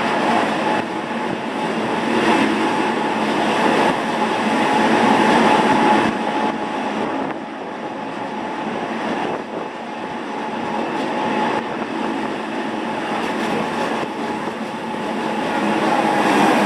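Gornergrat electric cogwheel (rack) train running, a steady rumble and rattle with a faint steady whine over it.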